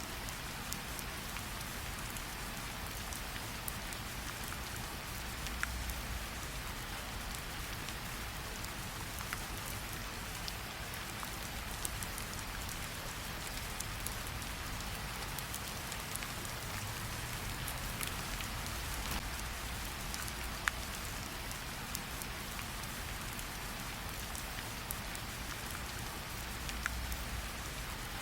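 Steady rain hissing, mixed with a campfire crackling in scattered, irregular sharp pops.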